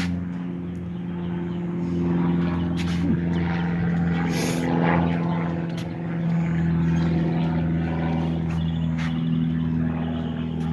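An engine runs steadily throughout, holding a nearly even pitch, with a few light clicks and knocks over it.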